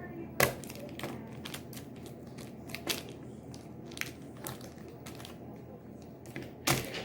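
Irregular crunching and crackling clicks, with the loudest snaps about half a second in and again near the end.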